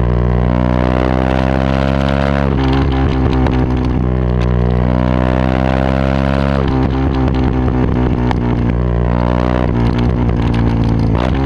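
Yamaha WR125X's single-cylinder four-stroke engine running loud through a Takkoni aftermarket exhaust, its pitch holding steady or climbing slowly. The note breaks off and resets about two and a half seconds in, again near seven seconds, and just before the end.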